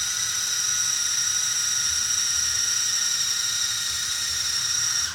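Axial SCX24 micro RC crawler's small electric motor and geartrain whining steadily at a high pitch, cutting off abruptly near the end.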